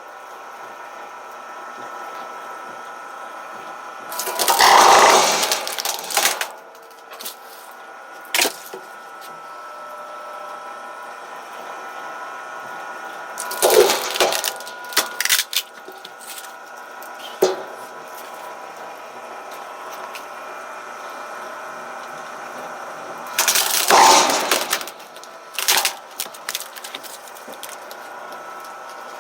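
Homemade log splitter driven by an electric geared motor and reduction gearbox, running with a steady whine while it splits firewood logs. Three times, about ten seconds apart, the wood cracks and breaks apart loudly, with smaller snaps and clicks between.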